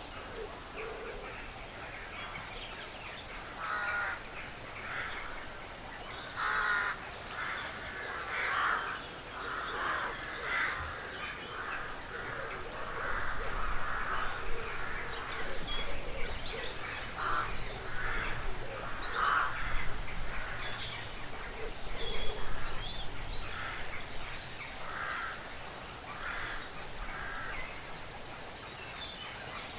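Woodland ambience with birds calling: a string of short, harsh, raspy calls through the middle, thin high chirps scattered throughout, and a faint low rumble for several seconds mid-way.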